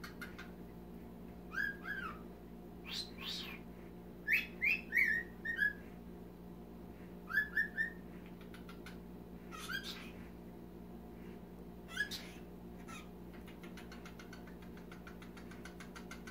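Cockatiel whistling and chirping in short bursts of gliding, rising-and-falling notes, with the busiest run of notes about four to six seconds in.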